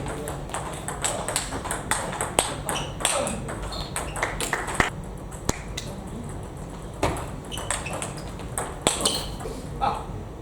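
Table tennis ball clicking off bats and the table during play. The hits come quickly in the first half, then more sparsely.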